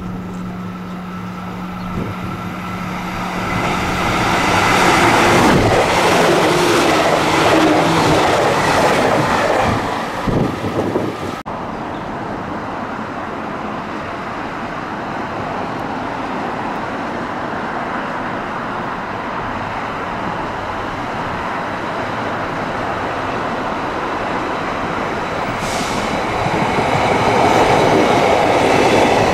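A JR Kyushu electric multiple-unit train pulling into a station platform, growing louder as it comes in. After an abrupt cut about eleven seconds in, a JR Kyushu 819 series DENCHA train runs by, louder again near the end as its cars pass close.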